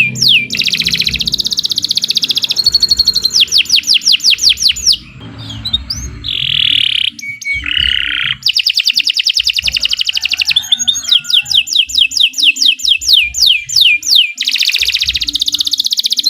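Domestic canary in full song: long runs of fast, repeated whistled notes sweeping downward, several a second. About five seconds in, the song breaks for a few seconds into softer, lower notes, then the fast trills resume.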